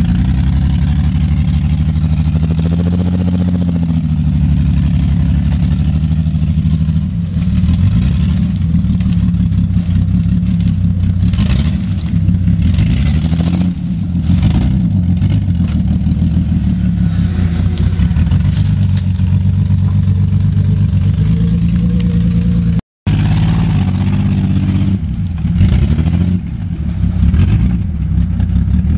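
A vehicle engine running loudly under changing throttle, its pitch rising and falling again and again, with some knocking and rattling over it. The sound cuts out for an instant about two-thirds of the way through.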